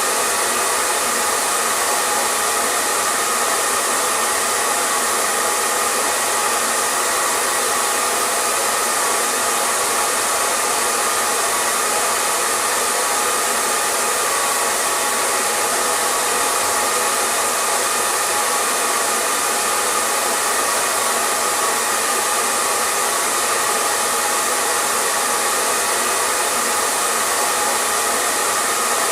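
Hair dryer running continuously: a steady airflow rush with a faint motor hum, unchanging throughout.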